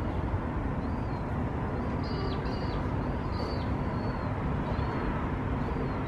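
Short, high chirps from small birds, repeated every second or so, some in quick pairs, over a steady low outdoor rumble.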